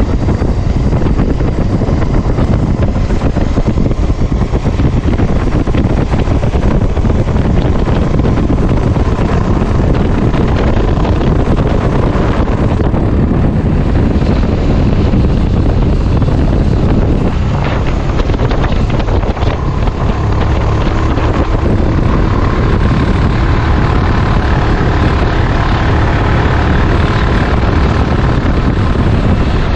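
Wind buffeting the microphone on a moving motorbike, over a steady run of engine and road noise.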